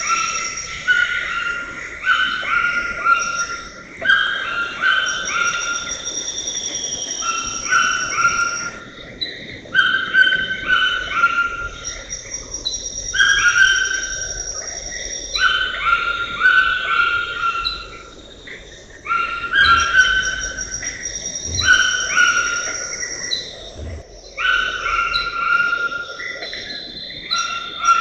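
A bird singing, repeating a short phrase of stepped notes every two to three seconds, with a thin high steady tone coming and going behind it.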